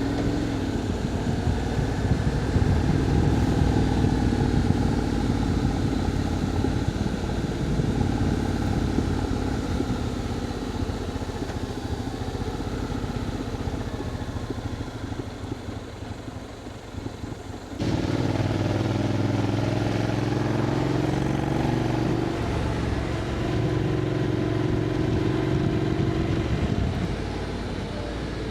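Motorcycle engine running while riding a steep downhill road, its pitch shifting gently through the bends. About 18 seconds in, the sound changes abruptly to a louder, steadier engine note.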